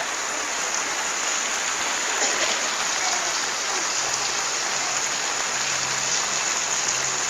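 Steady rush of a waterfall's falling water, an even hiss with no breaks. A low steady hum joins about four seconds in.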